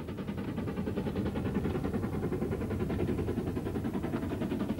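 Train running with a fast, steady rhythmic beat.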